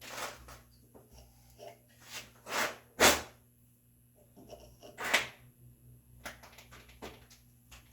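Hand chisel work in a red oak mortise: scattered sharp knocks and a scrape as the chisel is struck and levered, with two loud strikes about two seconds apart and a run of small clicks near the end.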